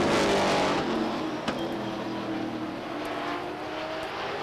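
Late model Sportsman stock cars racing past, their engines loudest at first and dropping in pitch as they go by. They then fade to a steadier, quieter drone from the field further around the track, with one sharp click about a second and a half in.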